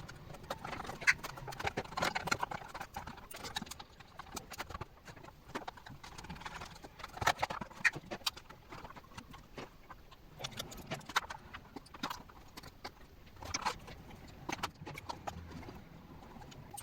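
Irregular clicks, taps and knocks of computer parts being handled and fitted together, several a second, with a few louder knocks.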